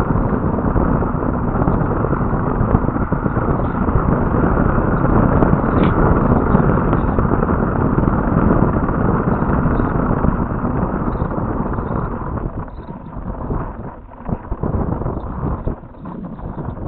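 Wind buffeting an outdoor webcam microphone: a loud, steady rush heavy in the low end that eases and comes in gusts near the end.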